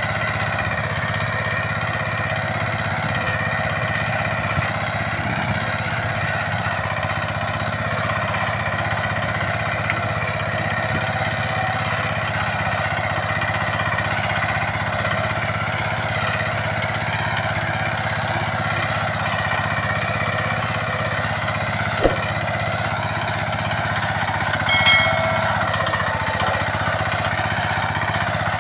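Small engine of a homemade mini tractor running steadily at a constant speed, with a short knock about two-thirds of the way through and a brief louder clatter soon after.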